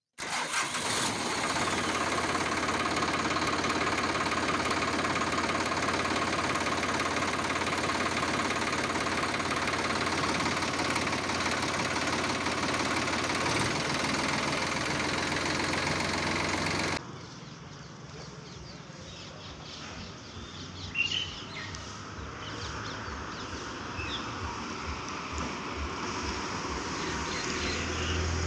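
A motor running steadily for about 17 seconds, then cut off sharply, leaving a quieter outdoor background with a few short bird chirps.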